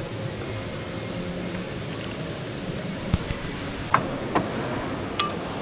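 A few light metallic clinks from tools and brake parts being handled, about five in the second half, some with a brief ring, over a steady background hum.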